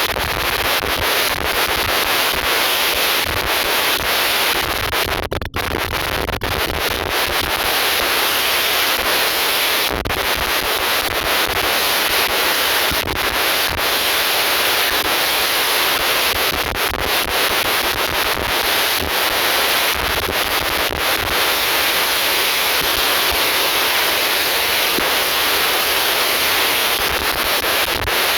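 Steady loud rushing noise of an airliner cabin, with a brief break about five seconds in.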